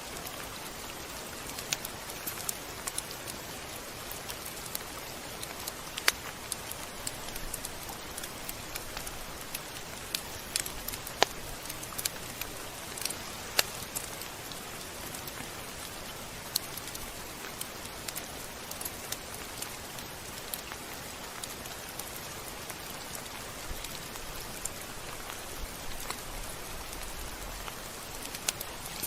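Steady rain, an even hiss with many sharp drops ticking irregularly on a hard surface.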